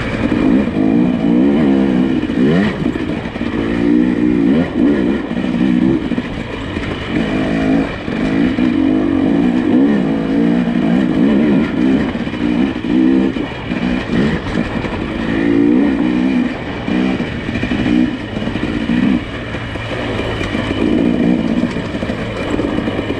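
Nissan Pathfinder SUV engine running under changing throttle as it crawls an off-road trail. The revs rise and fall every second or so.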